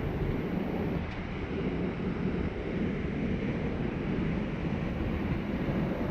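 Steady, deep rushing noise of a large waterfall pouring into its pool.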